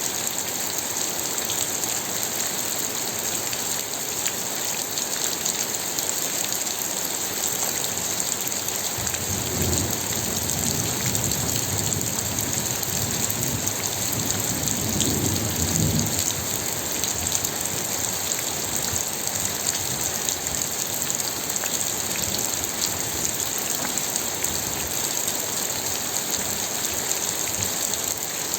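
Steady rainfall with a dense hiss of drops hitting a surface and fine scattered ticks. A low rumble swells up about a third of the way in and dies away around the middle.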